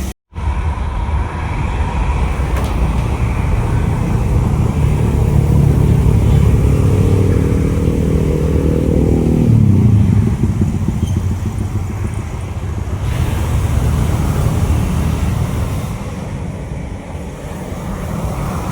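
A motor vehicle passes close by over a continuous low rumble: its engine note builds in loudness, then drops in pitch as it goes past about ten seconds in.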